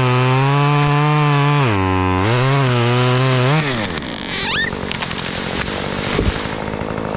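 Stihl chainsaw cutting through white oak at full throttle, its pitch sagging twice under load, then dropping back to idle about three and a half seconds in as the cut finishes. A rustling noise follows, with a single dull thump about six seconds in.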